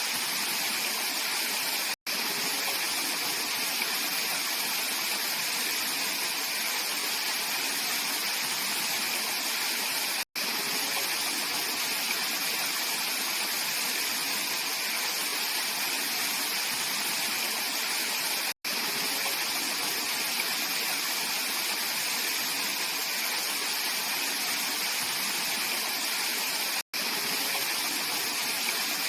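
Mountain valley stream flowing: a steady, even rush of water, broken by very short dropouts to silence about every eight seconds.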